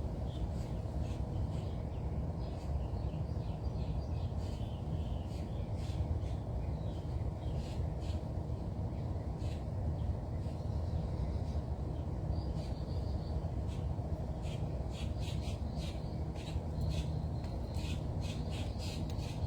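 Birds calling: many short, high chirps and squawks, coming thicker near the end, over a steady low background rumble.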